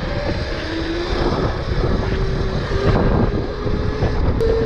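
Electric dirt bike's motor whining as it pulls away, the whine rising slowly in pitch and stepping up a little near the end, over heavy wind rumble on the microphone.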